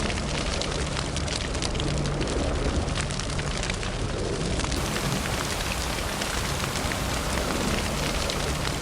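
Fire burning with a steady rushing roar and many small crackles and pops scattered throughout.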